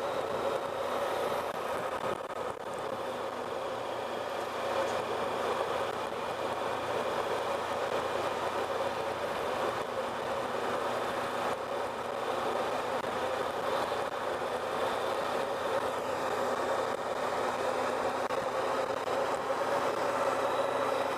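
Honda Pan European's V4 engine running steadily under road and wind noise. It is picked up by a helmet-mounted microphone.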